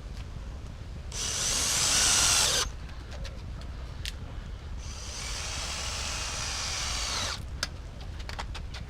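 Handheld power tool running in two bursts: a louder one of about a second and a half, then a longer, quieter one of about two and a half seconds. A few sharp clicks follow near the end.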